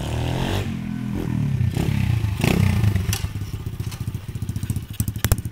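Lifan 110cc pit bike's single-cylinder four-stroke engine revving up and down, then dropping back to an even, pulsing idle about four and a half seconds in. A couple of sharp clicks sound over it.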